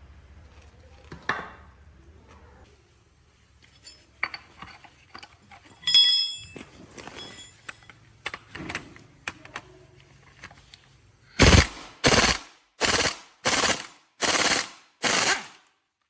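Metal tools and parts clinking and knocking, with one ringing metal clank, then six short loud bursts from a pneumatic impact wrench near the end.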